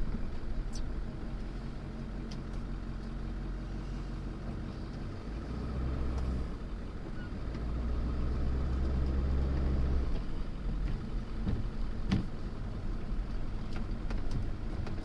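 Truck engine running at low speed, heard from inside the cabin. A deeper rumble swells from about five to ten seconds in, and a few sharp clicks sound, the loudest about twelve seconds in.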